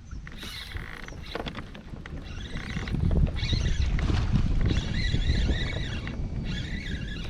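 Wind rumbling on the microphone on a kayak on open water, louder from about three seconds in, with a bird singing short warbling phrases over it.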